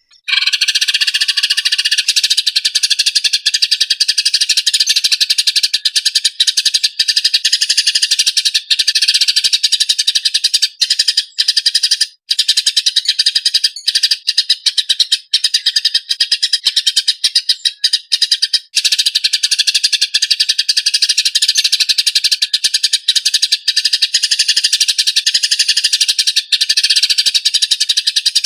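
Recorded songbird song used as a masteran track: a dense, very rapid rolling trill, high-pitched and nearly unbroken, that starts abruptly out of silence.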